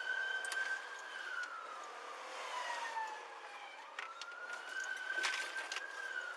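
Police car siren on a slow wail: the tone climbs and holds high, sinks away over a couple of seconds, then climbs again about four seconds in, with a few sharp clicks over it.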